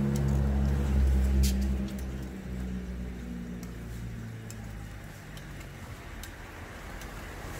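Glutinous rice hotteok frying in shallow oil on a flat griddle, with scattered clicks of metal tongs as the cakes are turned. Under it a low rumble, loudest in the first two seconds, then easing off.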